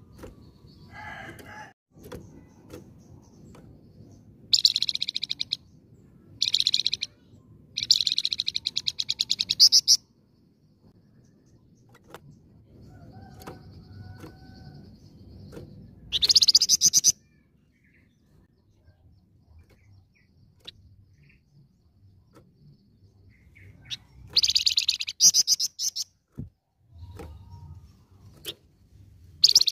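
A flamboyan songbird singing in short bursts of fast, rolling trills: about six bursts, each half a second to two seconds long, with pauses between them.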